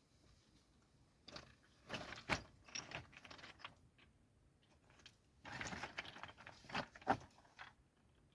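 Short clicks, knocks and crunching scrapes in two spells a few seconds apart, like hard objects being handled or shifted.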